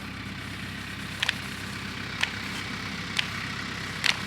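An engine idling steadily, with four short sharp clicks about a second apart over it.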